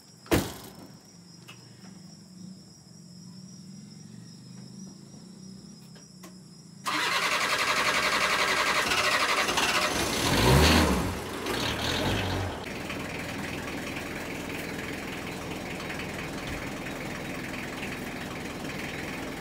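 A sharp knock just after the start, then a vehicle engine sound that comes in suddenly about seven seconds in. It swells louder around ten to twelve seconds in and settles into a steady run.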